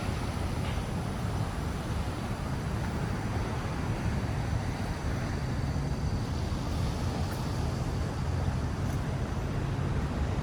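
Steady low rumble of downtown street traffic.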